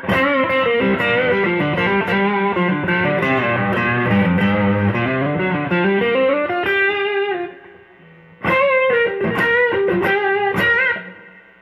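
Electric guitar fitted with McL V2 clone pickups, played overdriven through a Blues Breaker pedal stacked into a TS10 overdrive and an amp: a lead phrase with bent notes for about seven seconds, a short pause, then a second phrase.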